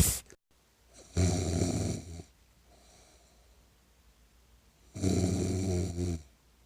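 Snoring: two loud snores, each about a second long, roughly four seconds apart, with a faint breath between them.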